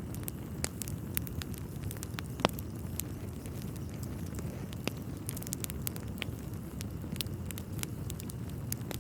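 Wood fire crackling in a fireplace: a steady low rumble of burning logs with scattered sharp pops, one louder pop about two and a half seconds in.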